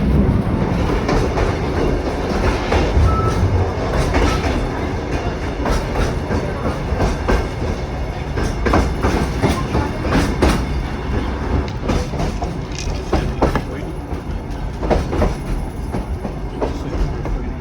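Kuranda Scenic Railway train running along the track: a steady rumble with the wheels clicking irregularly over rail joints.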